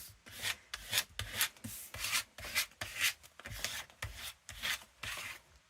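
Freshly glued paper being rubbed down onto a journal page to stick it: a quick run of short rubbing strokes, about two to three a second.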